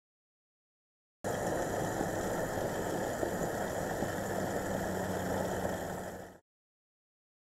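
Steady engine idling sound that starts about a second in and fades out about five seconds later.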